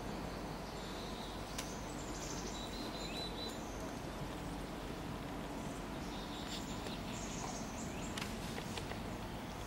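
Outdoor evening ambience: a steady low background hiss with faint, brief high-pitched bird chirps scattered through. The sandhill cranes in view are not calling.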